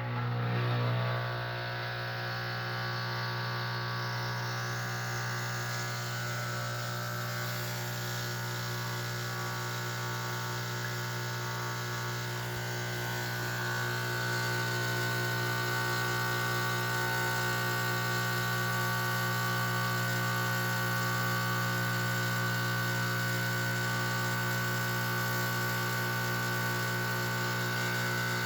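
Gaggia espresso machine's pump buzzing steadily while it pulls a test shot, getting a little louder about halfway through.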